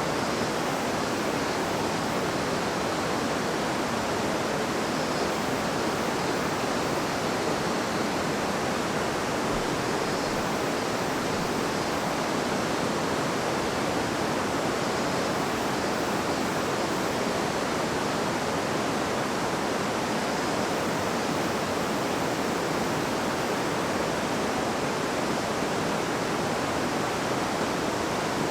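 River water babbling over stones: a steady, even rush of flowing water.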